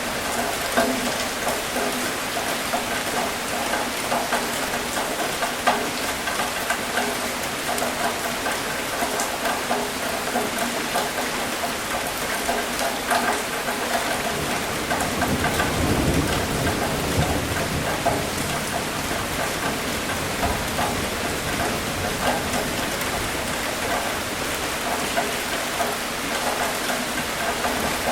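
Steady rain with many small drops pattering. A low roll of thunder swells and fades about halfway through.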